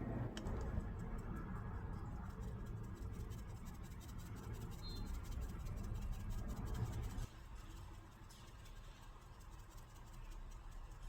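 Scraping and rubbing of a utensil working cookie dough in a mixing bowl. It stops about seven seconds in.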